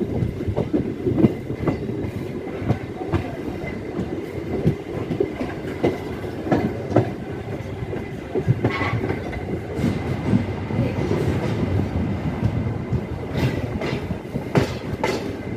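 MEMU electric multiple-unit train running along the track, heard from an open coach door: a steady rumble with the wheels clattering and knocking irregularly over the rails.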